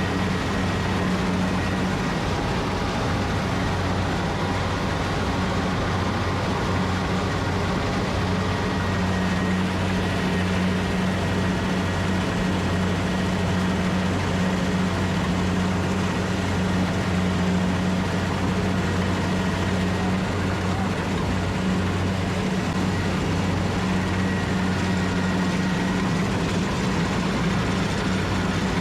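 Rice combine harvester's engine running steadily at a constant speed, with a steady low hum.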